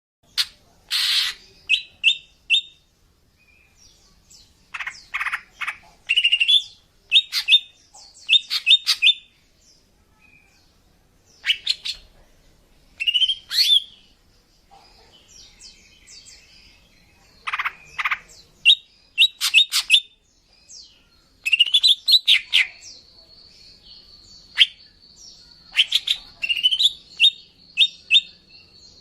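Green leafbird (cucak ijo) calling, given as a female's lure call for males: groups of sharp chirps and quick rising notes, often two to four in a row, every second or two with short pauses. In the later part a thin, steady high tone runs beneath the calls.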